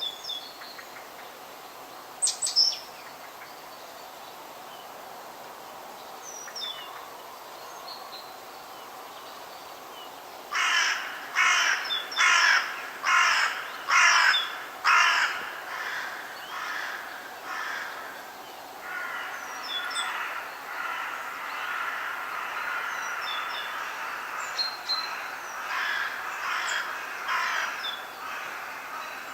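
Forest birdsong: small birds chirp with short high notes throughout. About a third of the way in, a bird gives a run of about seven loud, harsh calls in quick succession. A longer stretch of rougher, chattering calling follows in the second half.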